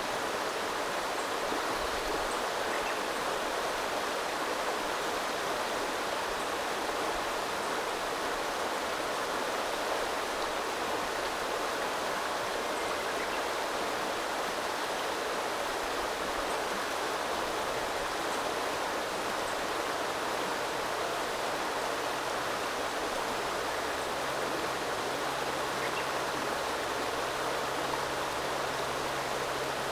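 Small river running steadily: an even, unbroken rush of flowing water.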